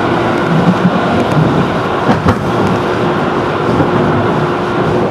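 Running noise of a JR 211-series electric train, heard from inside the car at speed: a steady rumble of wheels on rail with a low steady tone running through it, and a brief thump about two seconds in.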